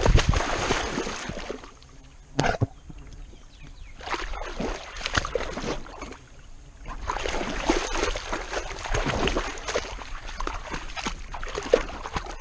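Water splashing and sloshing in irregular bursts as a dog wades and swims, heard close up from a GoPro strapped to its harness, with one sharp splash a couple of seconds in.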